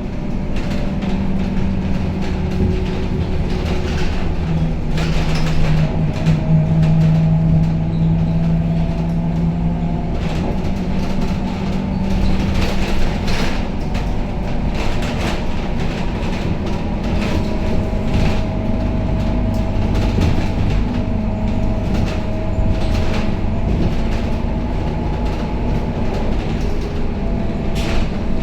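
Scania K270UB city bus heard from inside the passenger cabin while under way: a steady engine drone with a faint whine that glides up and down in pitch, and frequent rattles and clicks from the body and fittings.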